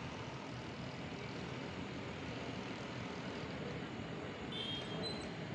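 Steady, even rumble of distant engine noise, with a few faint short high chirps near the end.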